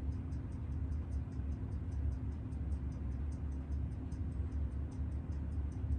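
Steady, rapid ticking at about six ticks a second over a constant low hum.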